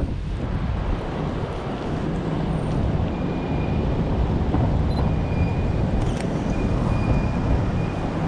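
Steady low rumble of city street traffic. A faint high tone comes and goes in the second half, with a single click about six seconds in.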